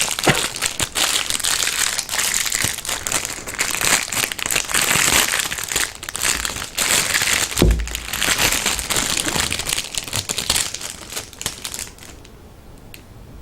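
Packaging crinkling and crumpling continuously as a small toy is unwrapped, with one low thump about eight seconds in. The crinkling stops about a second before the end.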